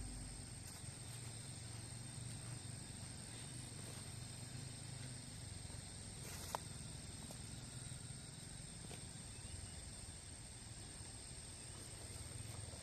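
Faint outdoor ambience with a steady high insect drone over a low hum, and a single small click about halfway through.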